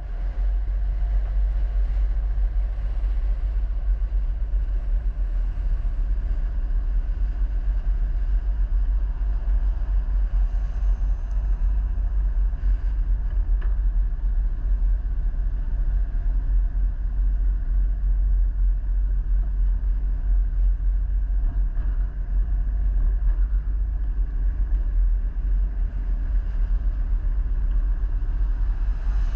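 A vehicle driving along a road: a steady low rumble of engine and road noise that holds without a break.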